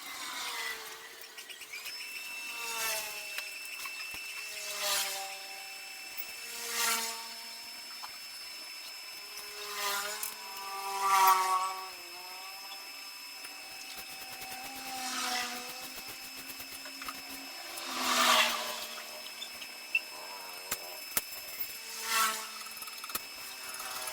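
Handheld power tool running, its motor pitch shifting up and down as it works, with louder surges every two to three seconds.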